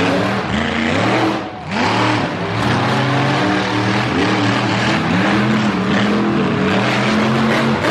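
Monster truck engine revving hard, its pitch rising and falling again and again with the throttle, easing off briefly about a second and a half in.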